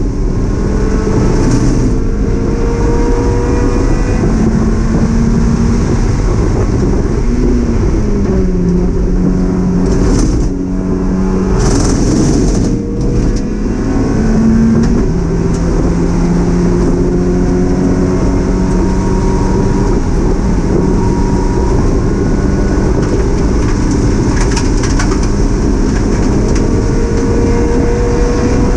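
Mazda MX-5 race car's four-cylinder engine running hard, heard from inside the cockpit. Its pitch climbs slowly, drops and climbs again between about eight and fifteen seconds in, then keeps rising.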